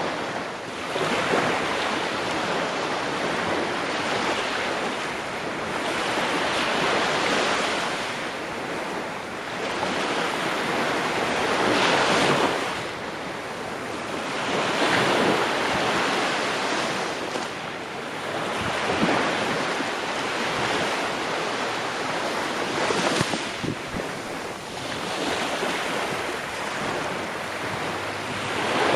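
Ocean waves breaking on a shore, the surf swelling and easing every few seconds in a steady wash.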